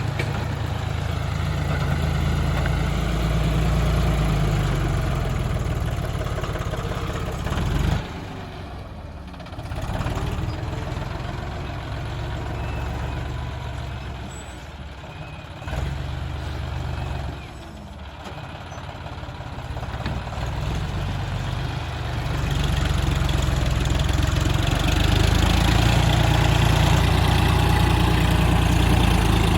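John Deere tractor's diesel engine running under work. It drops off sharply about a third of the way in, picks up again, drops once more past the middle, then grows louder toward the end.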